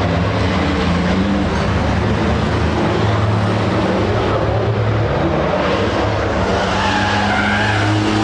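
Racing trucks' engines running hard, a steady loud mechanical drone, with a brief wavering whine about seven seconds in.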